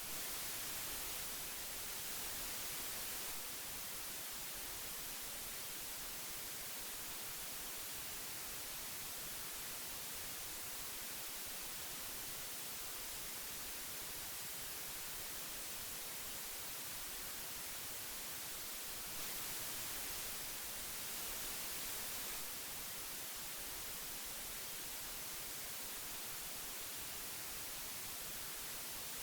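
Steady hiss of old magnetic tape, an even noise strongest in the high end. It swells slightly twice, near the start and about two-thirds of the way through.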